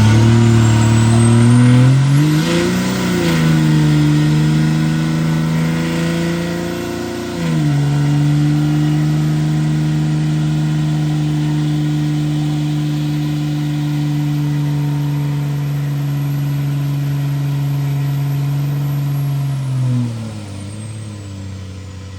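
Truck engine revved up and down, then climbing to high revs about seven seconds in and held steady there for about twelve seconds before dropping back near the end.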